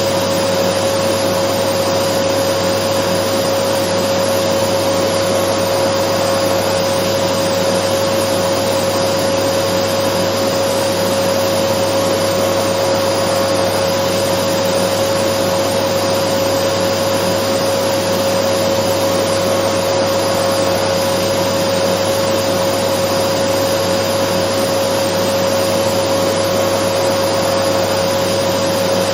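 Dyson vacuum cleaner running continuously at a steady speed: an even rush of air with a steady motor tone over it, unchanging throughout.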